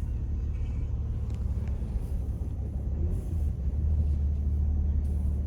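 Steady low rumble of a heavy-duty dually pickup truck driving, engine and road noise heard from inside the cab, with a couple of faint light clicks.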